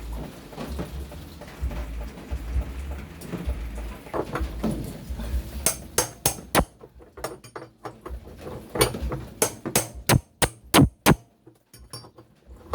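Sharp knocks and clatters of hard objects striking, about a dozen in the second half, several in quick succession, over a low rumble.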